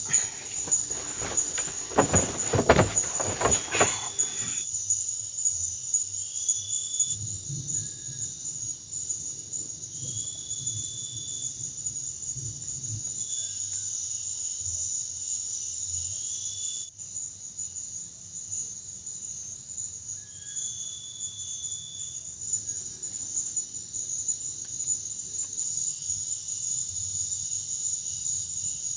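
Steady high-pitched drone of forest insects, with a short rising chirp at a lower pitch every three or four seconds. A handful of knocks and rustles fill the first four seconds.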